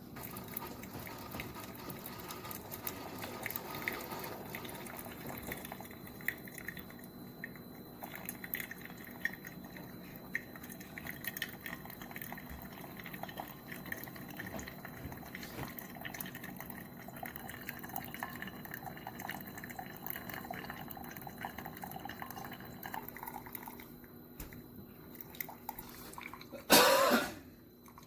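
Tastyle single-serve mini coffee maker brewing, coffee trickling and dripping into a mug with a steady run of small crackles and gurgles. Near the end comes one short, loud sputtering burst, after which it goes quiet.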